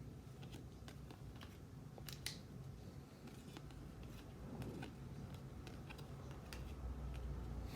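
Trading cards being handled and flipped through by hand: faint light clicks and a soft brief slide of card stock about two seconds in, over a low steady room hum.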